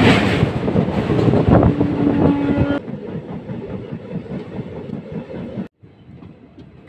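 Passenger train running at speed, heard from the open coach doorway: a loud rush of wind and rail noise with a brief steady whine in the middle. About three seconds in it drops sharply to a quieter rumble with the light clicking of wheels over rail joints.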